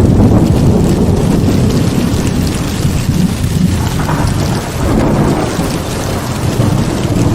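Heavy rain pouring steadily, with deep thunder rumbling and swelling underneath.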